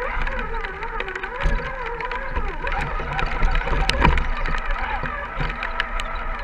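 Small electric motor and gear drive of an RC scale crawler whining, its pitch wandering up and down with the throttle, with scattered sharp clicks and knocks.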